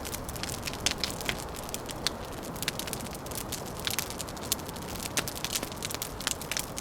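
Wood fire crackling: many short, sharp, irregular pops and snaps over a steady low rushing background.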